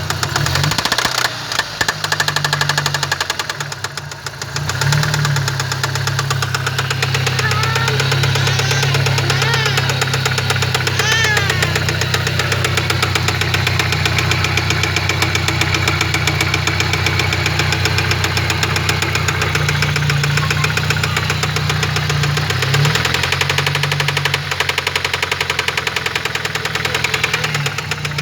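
Chevrolet Vectra 2.2 8-valve four-cylinder engine running with a fast, even ticking knock over its low hum. It is an abnormal engine noise whose cause the owner does not know. The engine note dips briefly a few seconds in.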